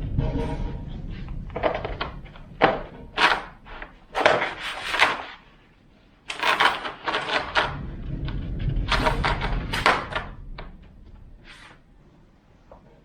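Self-adhesive plastic contact film being handled on a countertop: irregular crinkling, peeling and rubbing noises with short knocks, quieter for a moment around six seconds in and tailing off near the end.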